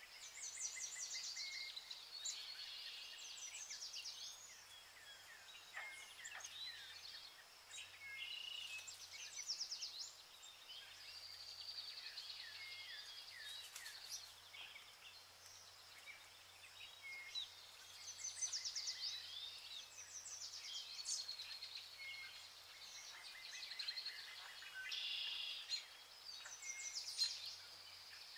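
Several birds singing and chirping, an overlapping mix of rapid trills and short falling calls that comes and goes in waves.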